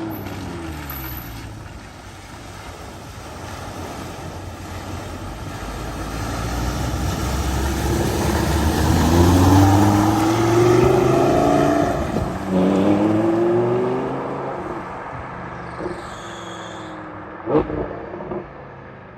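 A car driving through a flooded ford: its engine and the rush of water grow louder toward the middle, the engine note rises twice as it pulls away, then fades. A sharp knock comes near the end.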